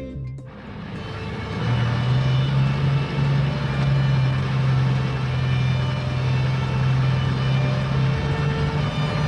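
Vehicle engine running with a steady low hum that sets in about a second and a half in.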